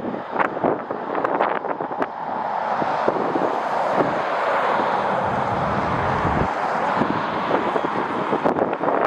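Strong wind gusting over the microphone, with sharp buffets and a rushing noise that swells through the middle.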